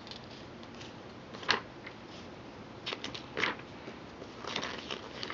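Trading cards being handled: a few short rustles and taps, spread over the moment.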